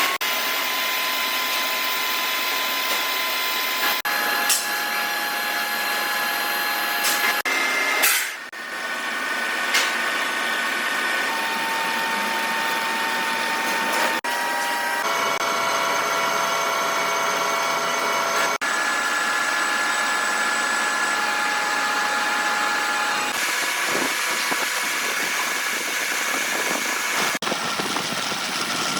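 Machine-shop power tools running, with steady whining tones over a hiss. The pitch and mix change abruptly several times.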